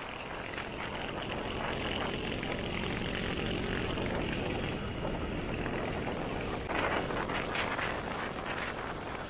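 1974 Triumph Trophy's 500cc parallel-twin engine running steadily under way, heard with road and wind rush. A brief louder rush of noise comes about seven seconds in.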